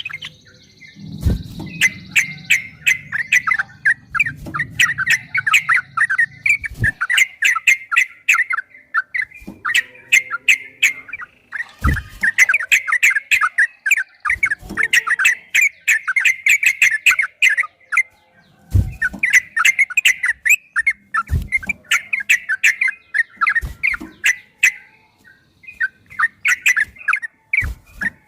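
Yellow-vented bulbul (trucukan) singing long, rapid phrases of bubbly chattering notes, phrase after phrase with brief pauses between. A few dull low thumps come through now and then.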